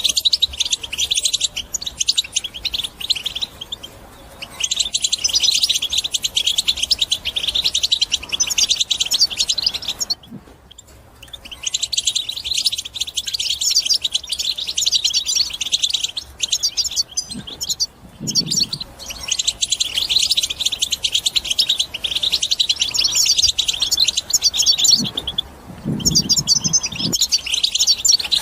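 European goldfinch singing a fast, twittering chatter of rapid high notes, in long phrases broken by a few short pauses.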